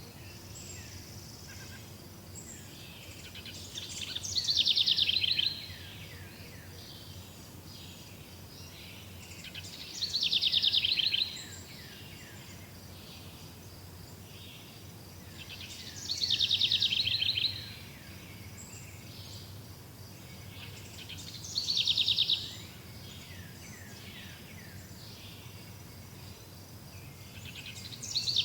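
Songbird singing a loud trilled phrase that falls in pitch, repeated about every six seconds, with fainter chirps between the phrases and a steady low rumble underneath.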